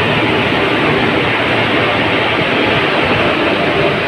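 Indian Railways WAP-4 electric locomotive passing close by, then its coaches rolling past: a loud, steady rumble of wheels on rail and running gear with no horn or pauses.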